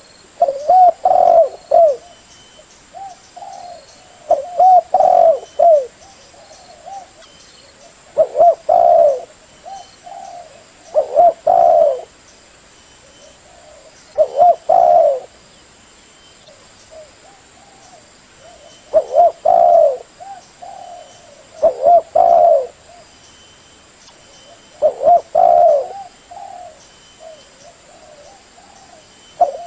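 Spotted dove cooing: a run of repeated phrases, each a loud burst of rolling coos lasting about a second, coming every two to four seconds, the kind of call played to lure tekukur.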